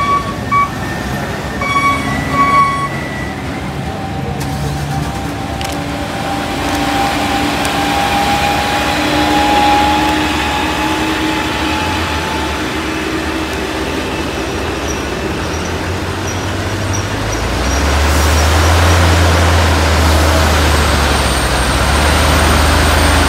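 Heavy vehicle engines labouring up a steep grade, with a slowly rising whine partway through. A deep low rumble builds about two-thirds of the way in and stays loud. A few short high tones sound in the first couple of seconds.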